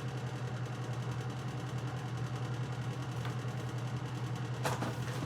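A steady low machine hum with a fast pulsing to it, and one brief click near the end.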